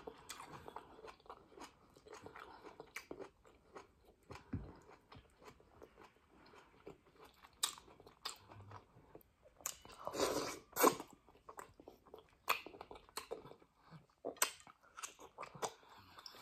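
Close-miked chewing of a tough piece of stewed meat: irregular wet smacks and clicks of the mouth, busiest and loudest about ten to eleven seconds in.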